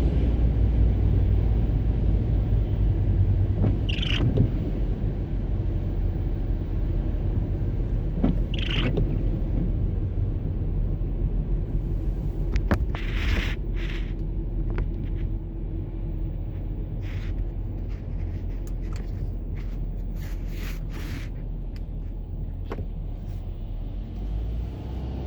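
Car road noise heard from inside the cabin while driving: a steady low rumble of engine and tyres, easing a little past the middle, with a few short clicks and rattles.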